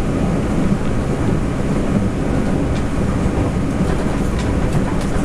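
Taroko Express tilting electric multiple unit (TEMU1000) running at speed, heard from inside the passenger car: a steady low rumble of wheels on rail with a few faint clicks.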